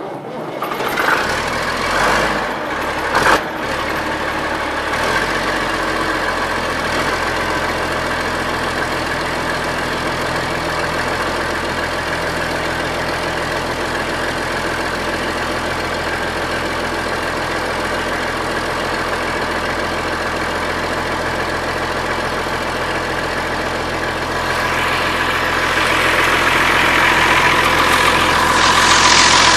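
Allis-Chalmers 7020 tractor's diesel engine catching on a cold start with starting fluid (ether), firing unevenly with a few loud bursts for the first few seconds, then settling into a steady idle that grows louder near the end.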